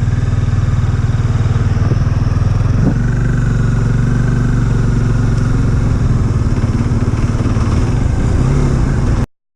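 Motorcycle engine running steadily at an even pitch, cutting off abruptly near the end.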